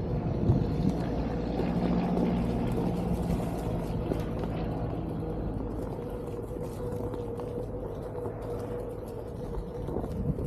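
Onewheel GT electric board riding along a trail: its hub motor holds a steady whine over the rumble of the tyre rolling on the ground.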